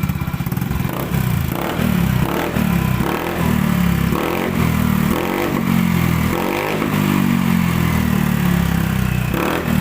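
Motorcycle engine running through a gutted (baffle-removed) muffler, revved in repeated throttle blips that rise and fall about once a second. It has a deep, bassy exhaust note.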